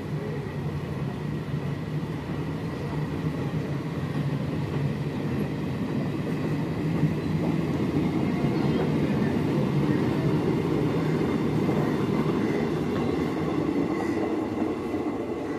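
Indian Railways passenger coaches rolling past on the track, a steady rumble of wheels on rails. It grows louder through the middle as the last coaches pass close by, then eases off near the end as the train pulls away.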